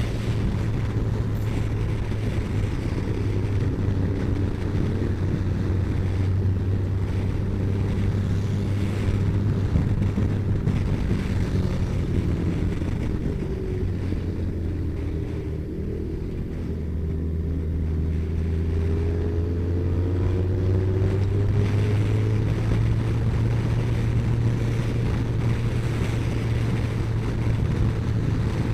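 Kawasaki ZZR1400's inline-four engine running under way, with wind rushing over the microphone. About halfway through the engine note and level sag as the bike eases off, then climb again as it picks up speed.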